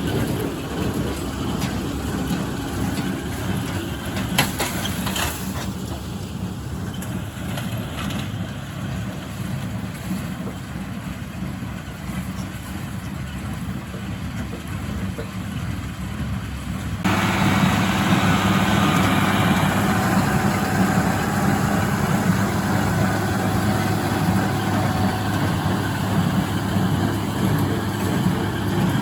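International Harvester 886 tractor's six-cylinder diesel running steadily under load while it pulls a John Deere 348 small square baler with a pan kicker. About two-thirds of the way through, the sound suddenly becomes louder and brighter and stays that way.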